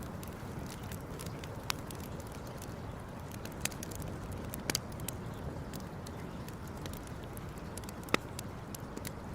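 Campfire burning with a steady low rush and scattered sharp crackles and pops of burning wood, a few louder pops along the way and the loudest about eight seconds in.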